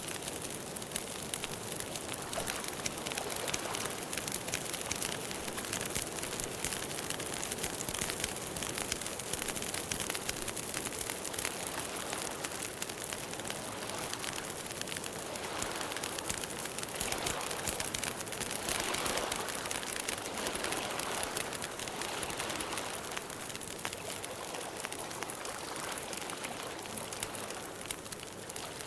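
Campfire crackling steadily, a dense stream of small pops and snaps over a soft hiss.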